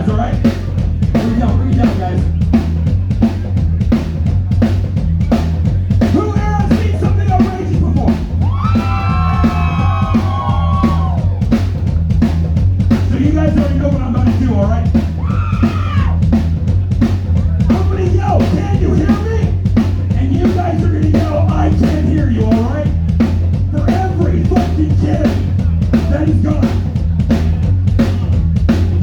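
Live band playing a song: a drum kit keeps a steady beat over a heavy bass, with a lead melody standing out for a few seconds in the middle.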